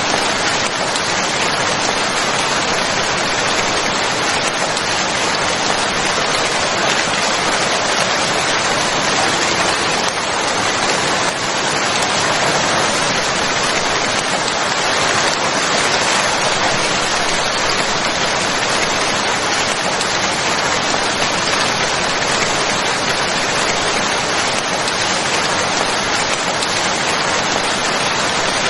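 Steady, dense rain falling on a surface, an even hiss of many drops without a break.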